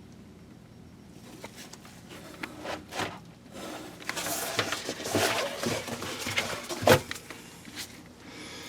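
Handling sounds: scattered clicks and a few seconds of rustling, then a sharp knock about seven seconds in.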